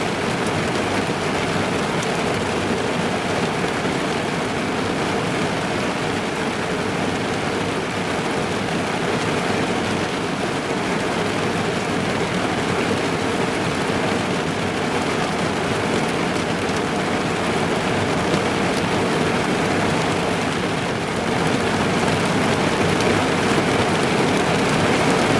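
Steady rain falling on a car's roof and windows, heard from inside the car; it gets a little louder about twenty seconds in.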